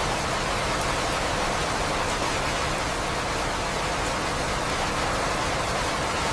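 Steady rain falling, an even hiss with no changes.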